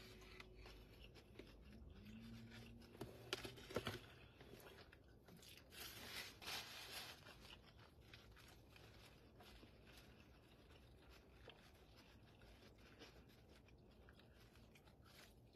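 Faint eating sounds: a burger being chewed with the mouth closed, a few soft clicks about three to four seconds in, and a paper napkin rustling about six to seven seconds in.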